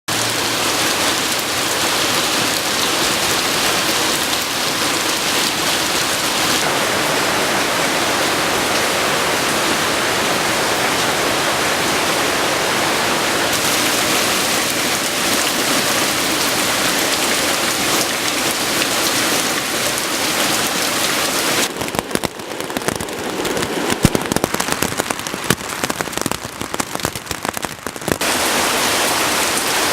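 Loud, steady rush of water: heavy rain and fast-running floodwater. From about 22 to 28 seconds the even hiss thins into an uneven crackle with sharp spikes, then returns.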